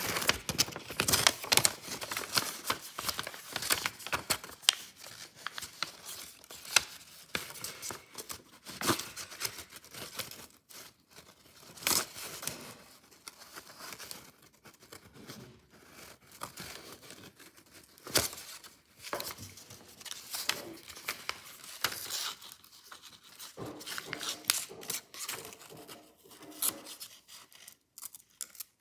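Scissors cutting paper in irregular snips, with the paper rustling and crinkling as it is handled.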